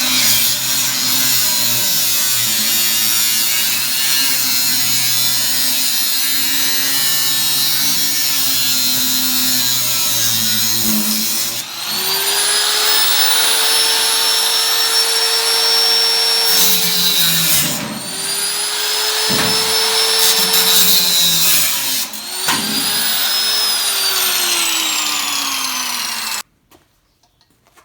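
Electric power tool working on an 18-litre tin can: a steady rasping run for about eleven seconds, then the motor is run three more times, each time spinning up to a whine and winding down, the last wind-down slow, before it goes near silent.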